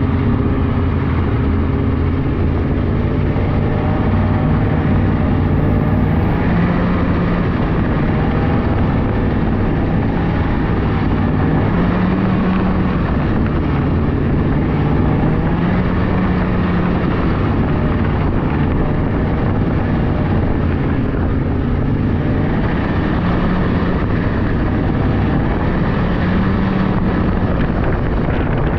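Polaris 600cc snowmobile engine running under way. Its pitch rises and falls gently and repeatedly with the throttle, over a steady noisy rush.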